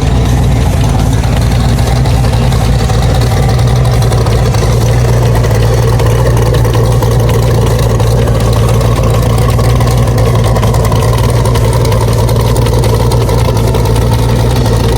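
Twin-turbo 4.8 L LS V8 of a Factory Five GTM running steadily at an even pitch.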